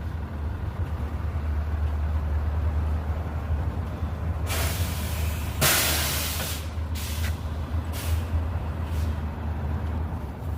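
Steady low rumble of motor traffic, with a series of sharp hisses about halfway through, the longest lasting about a second.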